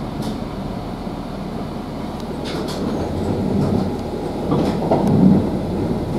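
Inside a Class 483 electric train, built from ex-London Underground 1938 tube stock, running and braking to a stop: a steady low rumble with a few sharp clicks and squeaks about two and a half seconds in, and a heavier low knock about five seconds in.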